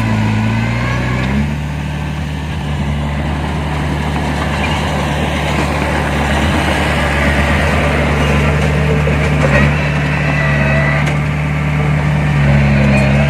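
Heavy earthmoving machine's diesel engine running steadily, its engine speed shifting about a second and a half in and again near the end.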